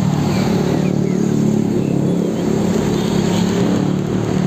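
Street traffic: a heavy vehicle's engine running steadily close by, with the rush of passing cars and a motorcycle going past.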